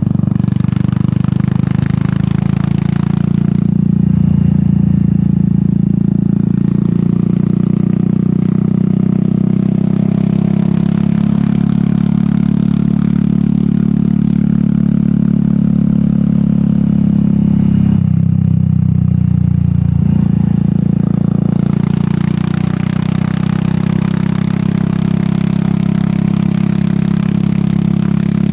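Royal Enfield Meteor 350's single-cylinder engine through an aftermarket sport exhaust, running steadily under way. The note drops and changes briefly about eighteen seconds in, then settles again.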